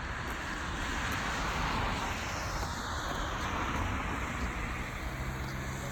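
Jet airliner passing overhead: a steady rushing roar that swells about a second or two in, with a shifting hiss in the upper range.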